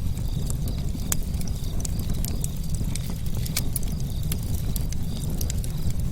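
Campfire burning, with a steady low rumble and frequent sharp crackles and pops at irregular intervals.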